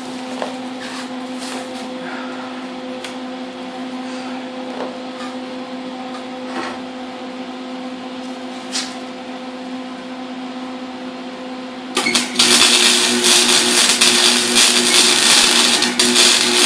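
A steady electrical hum with a few fixed tones, then about twelve seconds in a welding arc strikes and runs on as a loud, continuous crackling hiss while the turbo flange is welded.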